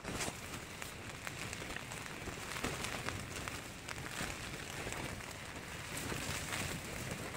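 Rain falling on the tent, heard from inside: a steady hiss made of many small, quick taps of drops on the fabric.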